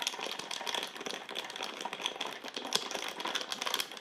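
Plastic ration packaging crinkling and rattling as it is handled and opened, a dense run of small crackles and clicks.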